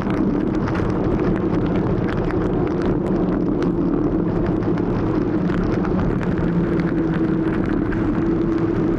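Motor scooter engine running steadily at cruising speed, a constant hum with light scattered clicks and ticks over the top.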